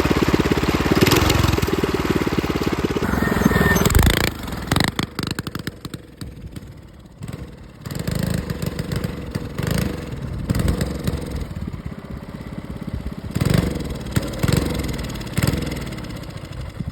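196cc clone single-cylinder engine on a mini bike, running loudly for about four seconds, then dropping to an uneven idle with several short revs. The engine is blown: the owner says it would only idle and had no power to move the bike.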